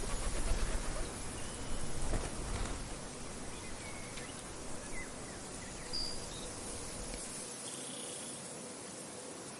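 Wind gusting against the microphone as a low rumble that dies away about seven seconds in, over a steady high drone of insects, with a few short bird chirps scattered through.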